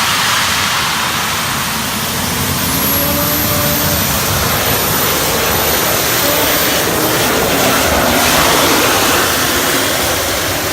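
Gas turbine engine of a turbine-powered pulling vehicle running hard at high RPM under load: a steady, loud jet-like roar with a thin high whine over it.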